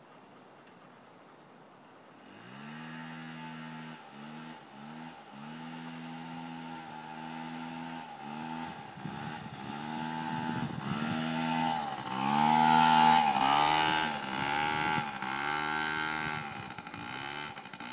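Motorbike engine coming in about two seconds in, then running with repeated revving up and down as the throttle is opened and closed, loudest about two-thirds of the way through.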